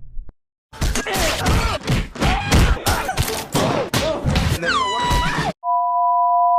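A rapid, dense run of crashing, banging hits with swooping pitch sounds, ending in falling glides. It is followed by a steady two-note electronic tone held for about two seconds.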